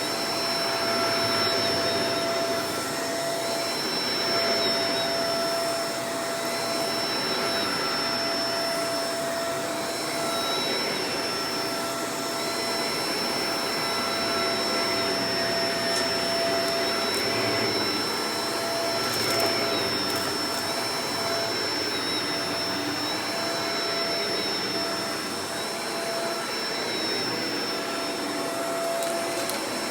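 Shark Professional Powered Lift-Away DLX (NV586) vacuum cleaner running continuously: a steady rush of air under a high motor whine, with small shifts in pitch and level every few seconds.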